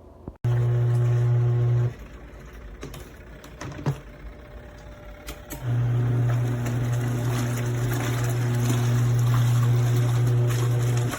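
Mini twin-tub washing machine's wash motor humming as it turns the wash tub. It runs briefly, stops for a few seconds, then runs again for about five seconds, the stop-start pattern of the wash cycle reversing direction.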